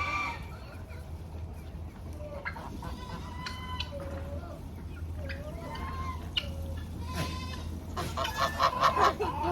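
A flock of poultry calling: scattered short calls, then a burst of rapid, louder squawking near the end, over a steady low hum.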